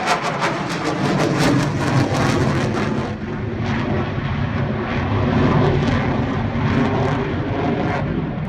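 Eurofighter Typhoon's twin EJ200 jet engines running loud, crackling sharply for the first few seconds. After that the crisp top of the sound fades, leaving a deep rumble.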